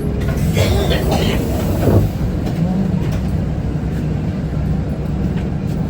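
Isuzu Erga city bus's four-cylinder diesel engine running, a steady low hum heard from inside the passenger cabin. A brief pitched sound comes about a second in.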